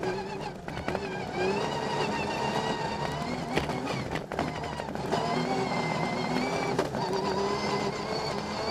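Rally car engine heard from inside the cockpit, driven hard, its pitch holding and then stepping up or down through gear changes. Several sharp knocks from the car's body cut through it.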